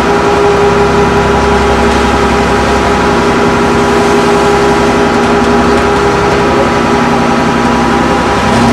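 A large engine running steadily at constant speed, heard from on board as a loud, unchanging drone with a steady hum.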